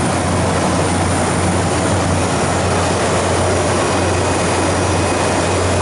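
Refrigeration condensing unit running steadily: a constant compressor hum under the rushing of the condenser fan, while the system is being charged with refrigerant.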